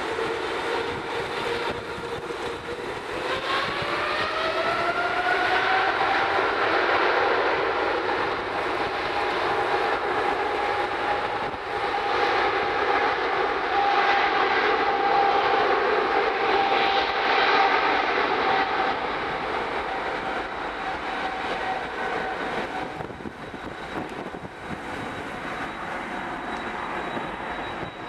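Jet airliner's engines spooling up to takeoff thrust: a whine that rises in pitch about three seconds in, then holds steady under a loud engine noise that swells and fades away in the last third.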